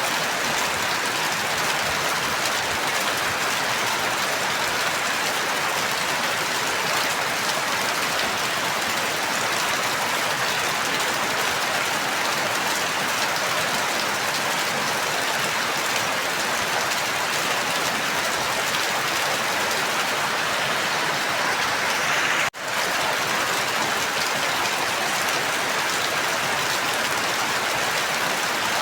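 Steady, even rain, with the sound dropping out for an instant about three-quarters of the way through and coming straight back.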